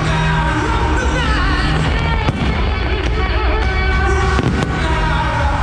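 Aerial fireworks shells bursting with several sharp bangs, heard over loud music playing for the show.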